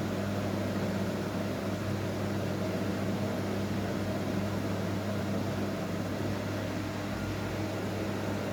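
Washing machine running through a blanket wash, a steady motor hum over an even noise.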